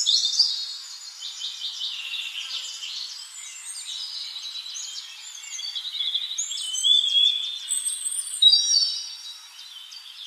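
Many small songbirds chirping and twittering together, their short high calls overlapping throughout.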